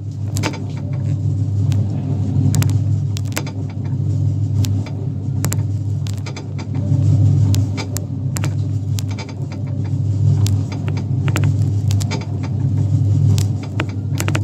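Coin-operated kiddie ride tug boat in motion: a steady low motor hum that swells and fades about every three seconds, with scattered clicks and knocks from the mechanism.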